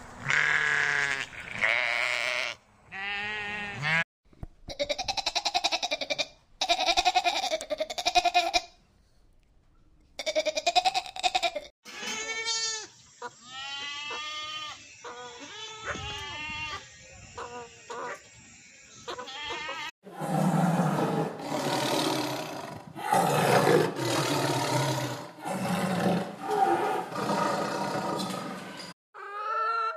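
Farm animals calling in a run of short clips cut one after another. First come several quavering, pitched calls. Near the end there is a longer stretch of louder, rougher calls in a steady rhythm.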